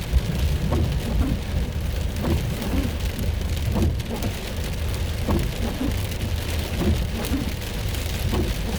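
Heavy rain pelting the car's roof and windows, heard from inside the car as a steady dense drumming.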